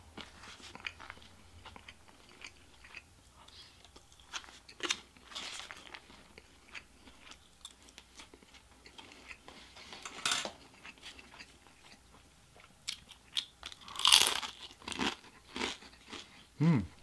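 Close-up chewing and eating noises, with small clicks of a fork in a foam takeout container. About 14 seconds in there is one loud crunch from a bite of a crisp fried cream cheese rangoon.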